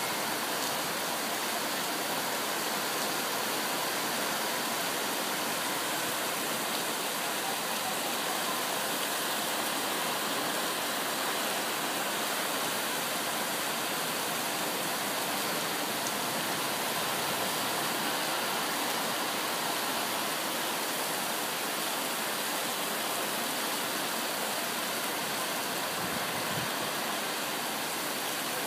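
Heavy rain pouring down steadily on a paved courtyard and trees, a dense, even hiss with no letup.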